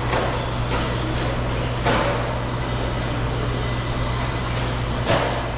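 Electric RC stadium trucks racing: motor whine and tyre noise, with a few brief louder passes or landings, over a steady low hum.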